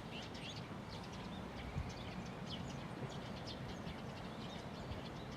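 Birds giving many short, quick chirps over a steady low background rumble.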